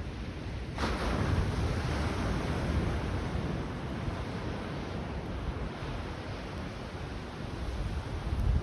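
A sea wave breaking on the beach about a second in, then washing up and slowly fading, over a low rumble of wind on the microphone.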